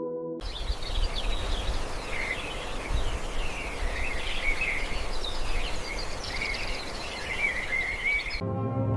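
Outdoor ambience of small birds chirping and twittering over a steady hiss and low rumble. It cuts in abruptly about half a second in and cuts off suddenly near the end.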